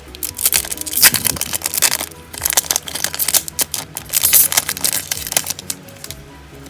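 Foil trading-card booster pack wrapper crinkling in quick, sharp bursts of crackle that stop about five and a half seconds in, over quiet background music.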